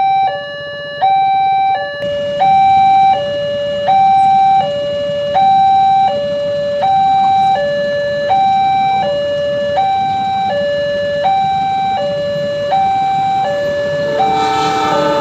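Railway level-crossing warning alarm sounding a steady two-tone signal, alternating between a higher and a lower tone about every three-quarters of a second: the sign that a train is approaching. Near the end the rising noise of the oncoming train comes in under it.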